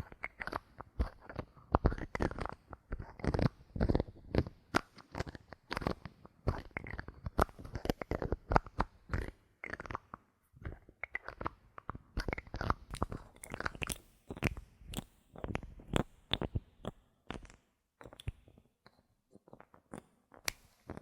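Bottle caps handled right at the microphone: a dense, uneven run of clicks, taps and crinkles, thinning out near the end.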